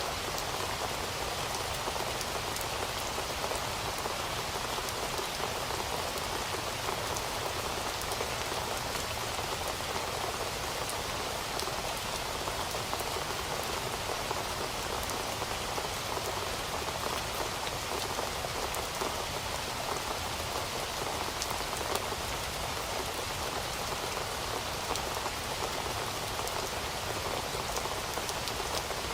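Heavy rain falling steadily on a surface, a dense even hiss with many fine drop ticks and no thunder.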